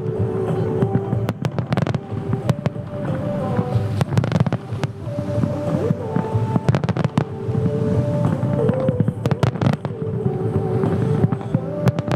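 Fireworks show: aerial shells bursting in quick, irregular bangs and crackles, one after another, over music with long held notes.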